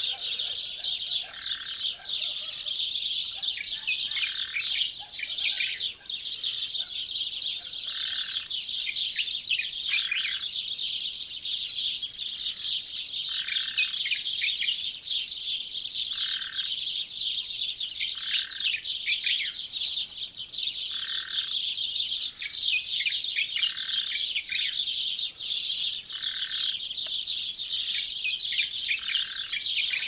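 Dawn chorus of many small birds chirping densely and without a break. Under it, a short, lower call repeats about every two and a half seconds.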